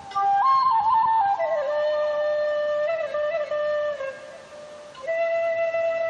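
Background music: a solo flute melody in long held notes with small ornaments, dropping off briefly about four seconds in before the next phrase.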